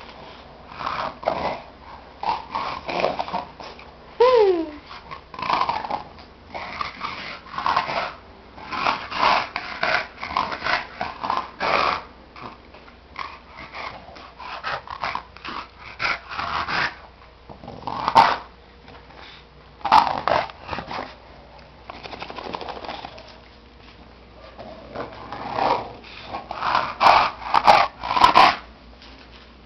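Bulldog snoring: a long run of irregular, noisy snores, often in quick clusters, loudest near the end, with one short falling whimper about four seconds in.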